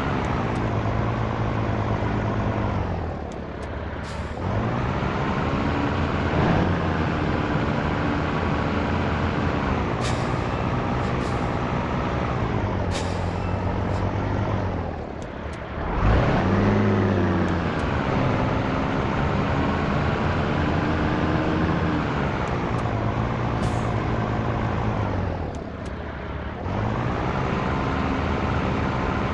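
Scania T113 truck's six-cylinder diesel engine pulling under way, its pitch climbing slowly in each gear and dipping briefly three times, about 3 s in, about 15 s in and about 26 s in, as gears are changed. A few short hisses sound over it.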